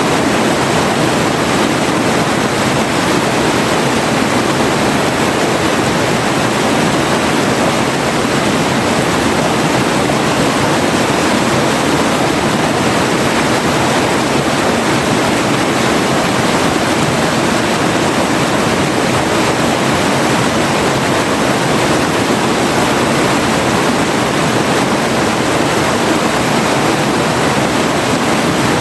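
River water rushing and splashing in a steady, unbroken wash.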